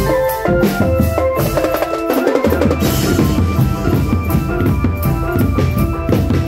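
Drum band music: bass drum and snare keeping a steady beat under a melody of held notes.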